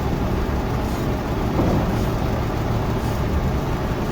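Sawmill machinery running with a steady low engine-like drone and a constant hum.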